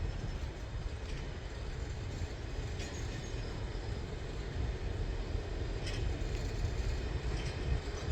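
A train running by with a steady low rumble, and a few faint sharp clicks now and then.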